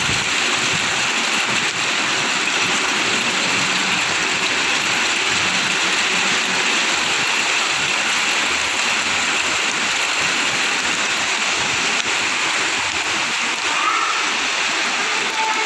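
Heavy rain falling and splashing, a steady, even hiss of water heard through an open window.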